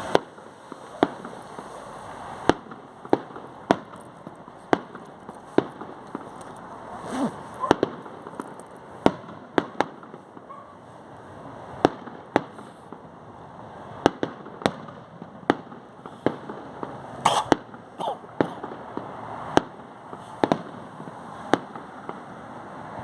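Fireworks going off: a run of sharp bangs at uneven spacing, roughly one a second, over a steady background rumble.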